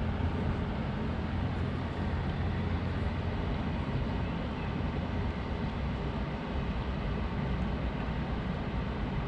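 Steady low rumble of outdoor city background noise, even throughout with no distinct sounds standing out.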